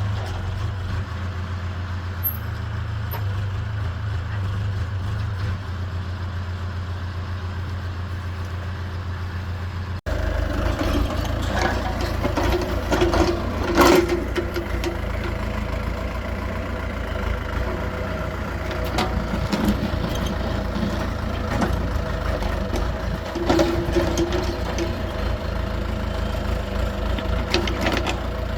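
Diesel excavator engine running steadily. After a cut about ten seconds in it is louder, with knocks and clanks and a couple of brief higher tones.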